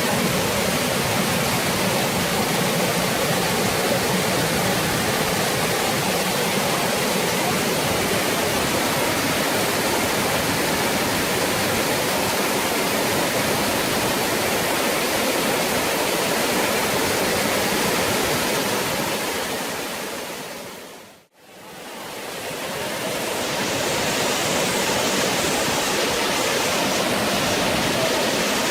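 Steady rush of falling water from a tiered waterfall. About 21 seconds in, it fades out to silence and back in again, a little brighter and hissier afterwards.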